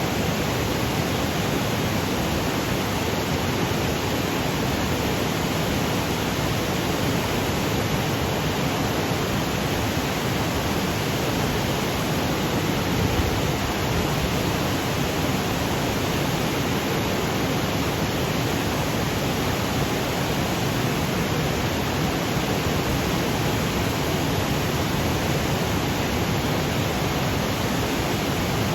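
Waterfall cascading over granite boulders: a steady, even rush of falling water with no breaks or changes.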